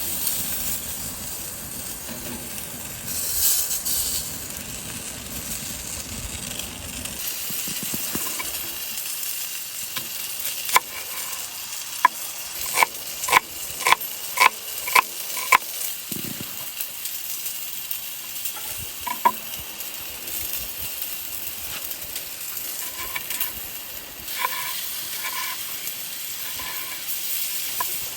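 Food sizzling in a pan. From about ten seconds in, a metal utensil stirring and clinking against the pan in a run of sharp ringing taps.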